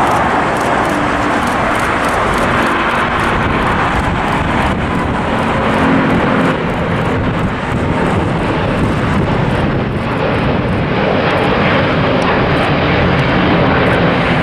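Airbus A350 airliner's twin Rolls-Royce Trent XWB jet engines at takeoff thrust just after liftoff, a loud steady rush of engine noise as it climbs away.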